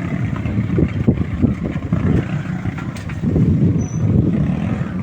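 Homemade mini jeep's Bajaj motorcycle engine running, its level rising and falling.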